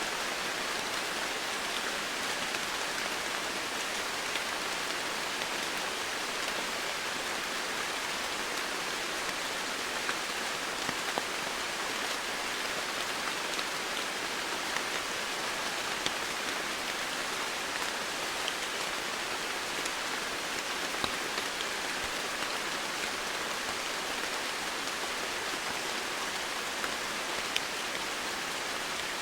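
Steady rain falling on foliage, an even hiss with scattered individual drops ticking through it.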